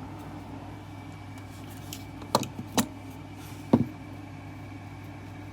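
Three light clicks and taps of soldering gear being handled at a workbench, over a steady low background hum.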